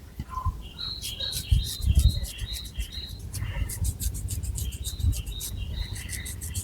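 Long fingernails scratching through hair and over the scalp in quick, repeated strokes, with soft low thumps of hands on the head. Short, high chirp-like squeaks run alongside the strokes.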